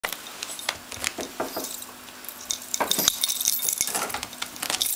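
Small hard objects clicking and clinking against each other and a surface. A few separate taps come at first, then a quick rattling run of clicks from about halfway through.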